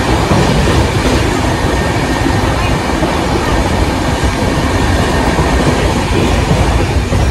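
Express passenger train running at about 125 km/h, heard from inside the coach: a loud, steady rumble and rush of wheels on rail.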